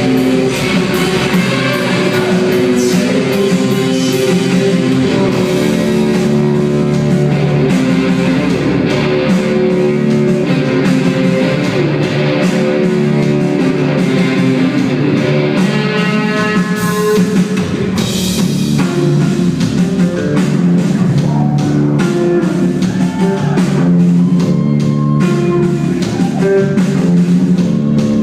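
Rock band playing live, with electric guitars and a drum kit, loud and continuous.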